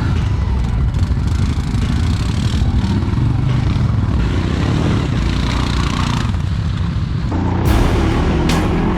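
ATV engine running under load on a trail, with clatter from the machine over rough ground. Near the end the sound gets louder and fuller, with sharp knocks.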